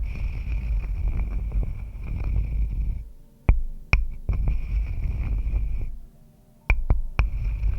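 Close-miked ASMR trigger sounds: rubbing and scratching with a heavy low rumble, in stretches of two to three seconds. Each stretch opens with a few sharp clicks, and there are brief pauses about three and six seconds in.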